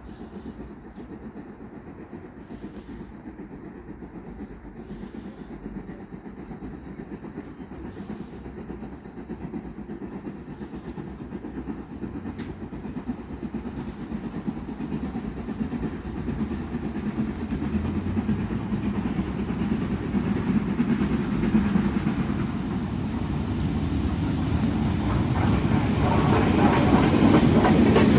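A train approaching on the line, its rumble and wheel-on-rail noise growing steadily louder until it is close by near the end.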